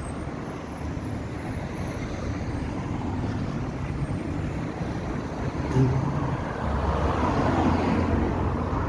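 Street traffic: the noise of road vehicles going by, growing louder in the second half as a vehicle passes close with a low engine hum.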